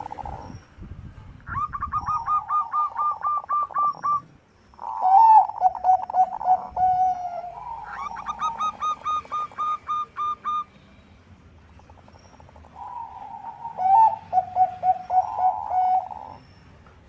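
Bangkok-type zebra doves (perkutut) cooing: four long phrases of rapid staccato coos. The phrases sit at two pitches that sometimes overlap, with short pauses between them.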